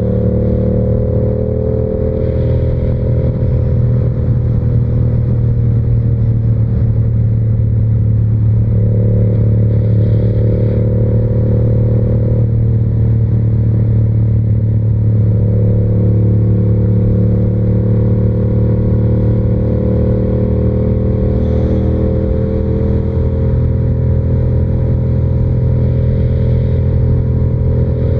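Yamaha R7's parallel-twin engine running at a steady cruise through an SC-Project exhaust, its pitch drifting gently up and down with small throttle changes.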